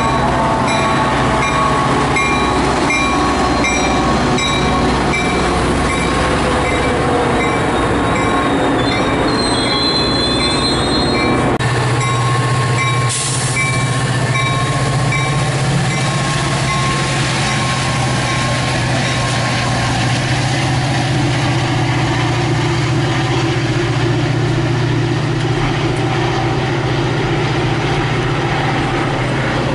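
Metra commuter train arriving at the station: a steady low diesel locomotive drone and the rumble of the train on the rails, with a bell dinging evenly through roughly the first half.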